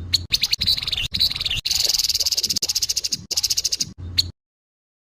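Grey-headed babbler giving its harsh call: a fast, rattling run of dry pulses that stops abruptly about four seconds in.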